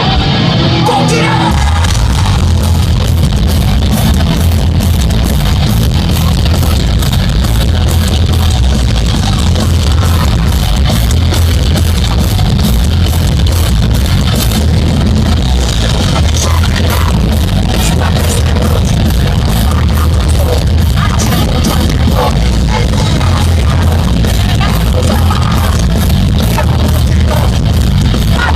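Heavy metal band playing live and loud with distorted guitars, heavy bass and pounding drums. A lone guitar line gives way to the full band crashing in about a second and a half in.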